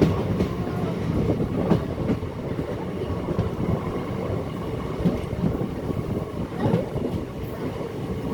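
Kanchanjangha Express passenger train running on the track: a steady low rumble with irregular knocks from the wheels.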